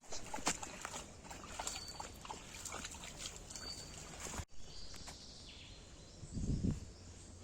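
Crackling and rustling in forest ground litter, the kind a dog makes snuffling and moving about, with a few faint high chirps. The sound cuts off abruptly partway through, and a short low rumble follows near the end.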